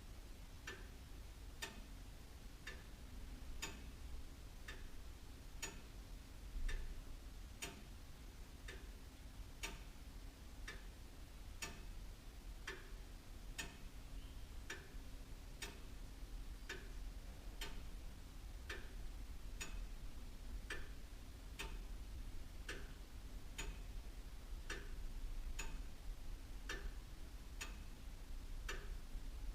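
Antique William Holliwell of Liverpool clock ticking steadily, about one tick a second, with a faint low hum underneath.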